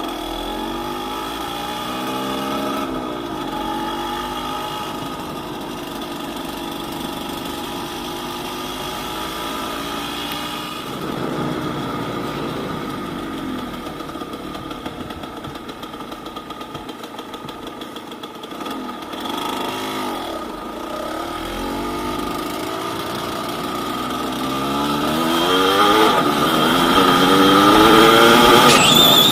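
Yamaha DT200WR's single-cylinder two-stroke engine riding a dirt forest road, its revs rising and falling again and again as the rider works the throttle. It gets louder near the end as the engine is held at higher revs.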